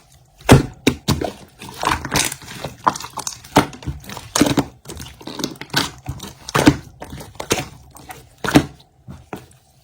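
Irregular crinkling and rustling with soft knocks, a short stroke every half second or so.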